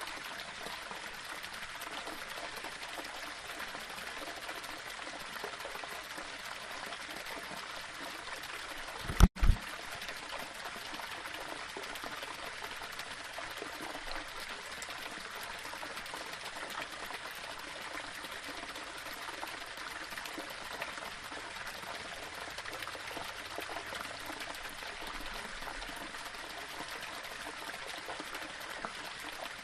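Small waterfall running steadily over rocks, an even rushing of water. About nine seconds in, two sharp low thumps with a split-second dropout between them cut through it.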